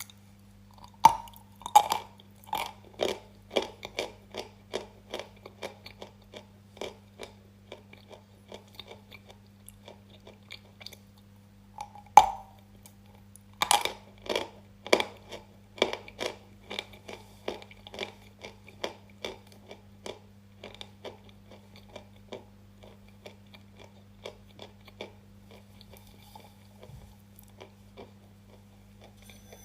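Crunchy food bitten and chewed close to the microphone, a crisp crunch about once a second. Two loud bites come about halfway through, and the chewing grows fainter toward the end. A steady low hum runs underneath.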